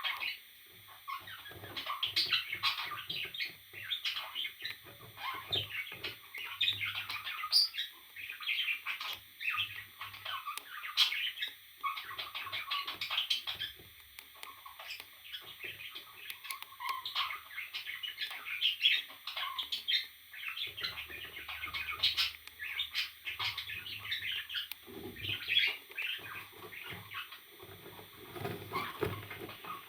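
Pet parrots chirping in a rapid, continuous stream of short, high calls.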